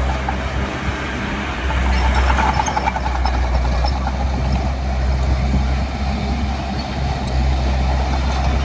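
Diesel engine of heavy earthmoving equipment running under load, a steady low rumble that eases briefly about a second in and again near the end before picking back up.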